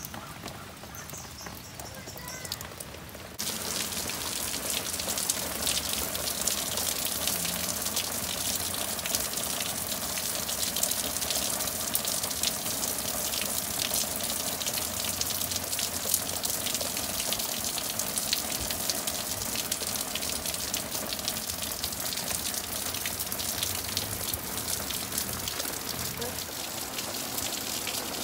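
Heavy rain pouring down, a dense steady hiss of pattering drops. It comes in suddenly and louder about three seconds in, after a quieter start.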